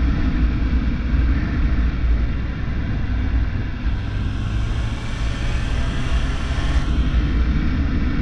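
Suzuki GSF600 Bandit's inline-four engine running steadily on the move, a low rumble under a constant rush of wind and road noise.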